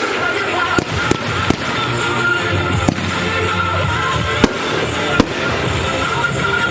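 Aerial fireworks going off: a continuous crackling wash punctuated by about half a dozen sharp bangs, with music playing alongside.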